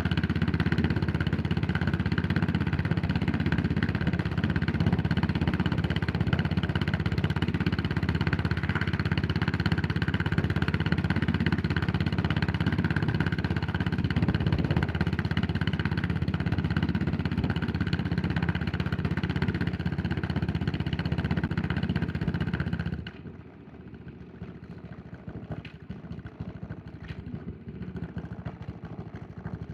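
Yamaha SR400's air-cooled single-cylinder four-stroke engine running at a steady, unchanging speed. About 23 seconds in, the sound drops off suddenly to a much quieter background with a few faint clicks.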